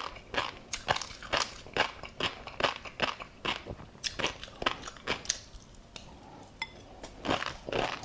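Close-miked eating of tobiko fish roe with a crunchy seafood topping: bites and chews come in quick succession, about two or three a second, with a pause of a second or so just after five seconds in.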